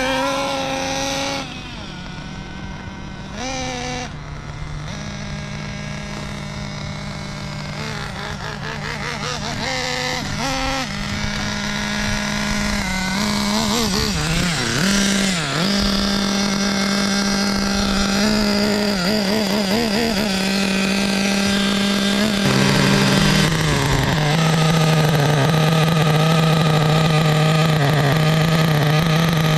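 SH .21 two-stroke nitro glow engine in an RC buggy running during its break-in. The pitch wavers with small throttle changes through the first half, then the engine settles into a louder, steadier note.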